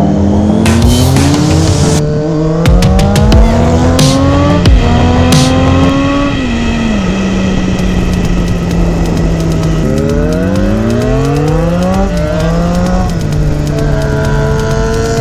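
Car engine accelerating through the gears. Its pitch climbs and drops back at each shift, holds steady for a few seconds in the middle, then climbs through several quick shifts again near the end.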